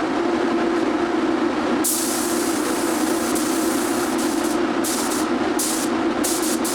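A steady machine hum with hissing bursts that switch on and off: a long one begins about two seconds in and lasts several seconds, and shorter ones come near the end.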